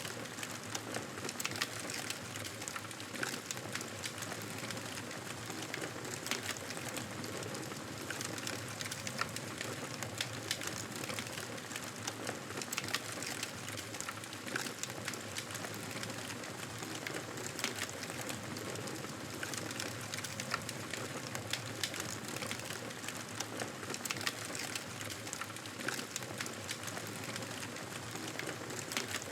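Wood fire crackling in a fireplace: a steady hiss dotted with frequent irregular pops and snaps.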